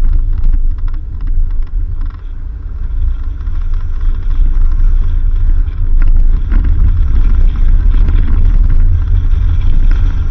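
Off-road vehicle driving on a dirt road: a loud, steady low rumble of engine and tyres, with a run of small knocks and rattles in the first couple of seconds.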